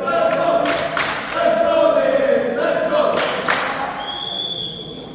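Several voices chanting together in long held tones, with two sharp impacts about one and three seconds in, then a referee's whistle blown in one steady blast about four seconds in.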